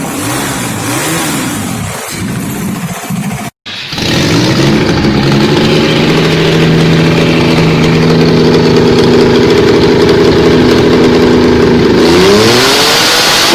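An engine revving up and down, then a sudden cut and a second engine running steadily before it revs up near the end.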